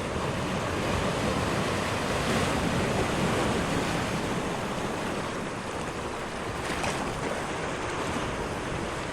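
Ocean surf: waves washing in a steady rushing noise that swells about two seconds in and then eases a little.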